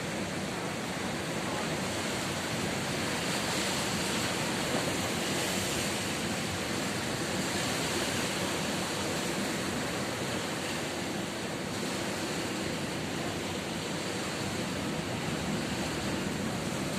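Ocean surf washing steadily on the shore, a continuous hiss of breaking waves that swells and eases slowly.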